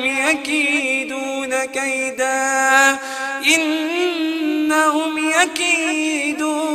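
A reciter chanting the Quran in melodic tajweed style. The voice holds long, drawn-out vowels with wavering ornaments in pitch, with only brief pauses for breath.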